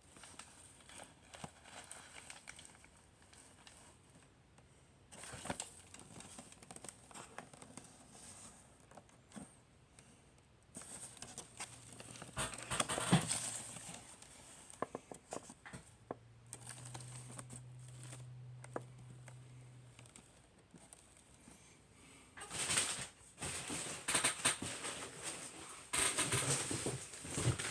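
Packaging of a boxed die-cast model truck being handled and opened: intermittent crinkling and rustling with small clicks and knocks, busiest around the middle and again near the end.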